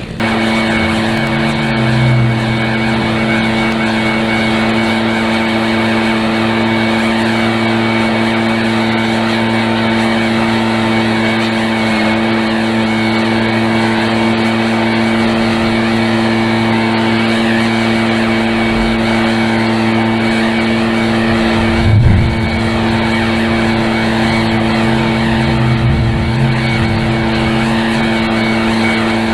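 Small gasoline engine of lawn equipment running steadily at high throttle, holding one even pitch throughout, with a brief low thump about three-quarters of the way through.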